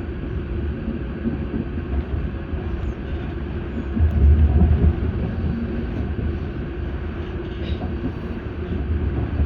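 Auckland AM class electric multiple unit running along the track, heard from inside the carriage: a steady low rumble of wheels on rails, swelling louder for about a second some four seconds in.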